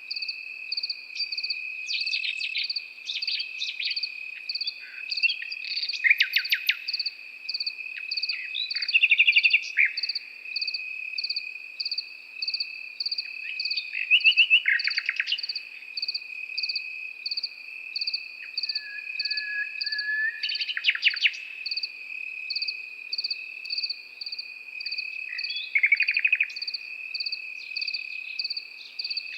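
Nightingale singing short phrases of rapid repeated notes and whistles every few seconds, over a continuous high cricket trill and a second insect call pulsing about twice a second.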